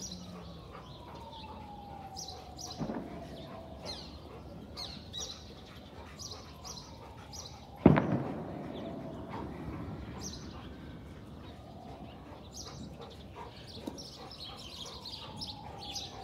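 Small birds chirping in short repeated calls in the background, with a faint tone sliding slowly downward three times. One sharp thump about eight seconds in is the loudest sound.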